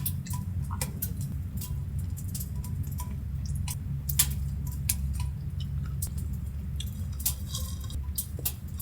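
Scattered, irregular ticks and drips over a steady low hum.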